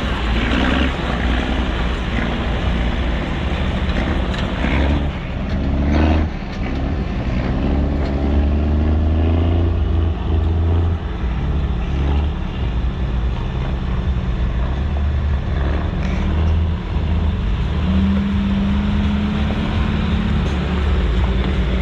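Truck engine running while being driven slowly off-road, its pitch rising and falling as the throttle changes. There are a couple of sharp knocks about four and six seconds in.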